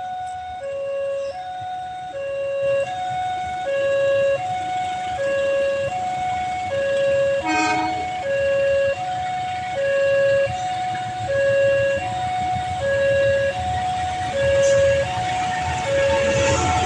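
Railway level crossing warning alarm sounding a steady high-low two-tone that repeats evenly, the signal that a train is approaching. A brief louder sound cuts in about halfway, and a low rumble builds toward the end.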